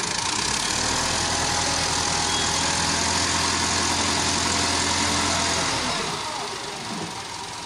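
Tractor diesel engine running loudly at a steady speed for about six seconds, then dropping away near the end.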